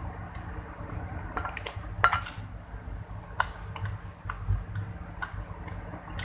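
A spoon clinking and scraping on a plate in short, separate strokes, the sharpest clink about two seconds in.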